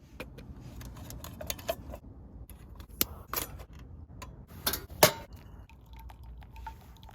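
Small hard objects being handled: irregular clicks and clinks, with a few sharper knocks, the loudest about five seconds in, over a low rumble.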